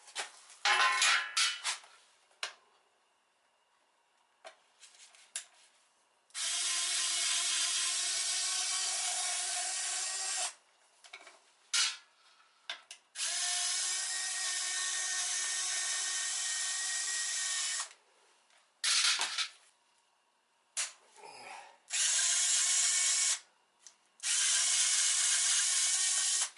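Electric drill/driver running in four steady bursts, two long and two short, with clicks and handling noises between them.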